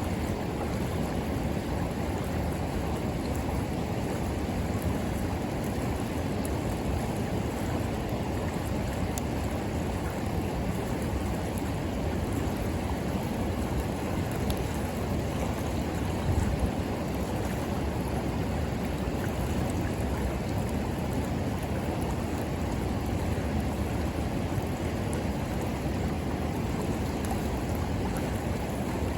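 A river flowing steadily, with faint scattered crackles from a wood campfire and one brief low thump a little past halfway.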